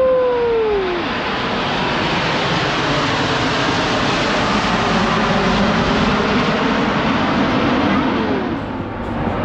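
Jet aircraft of the Snowbirds team (CT-114 Tutors) passing low overhead: a loud, steady jet roar that builds through the middle and eases slightly near the end. A brief pitched glide that rises and then falls is heard within the first second.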